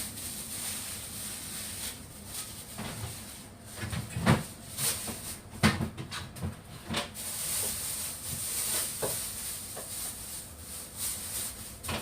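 Kitchenware being handled: a handful of short knocks and clunks, the loudest in the first half, over a steady hiss.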